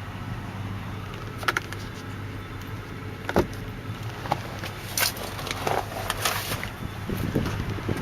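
The Town Car's 4.6-litre V8 idling steadily, with several sharp clicks and knocks from parts of the car being handled.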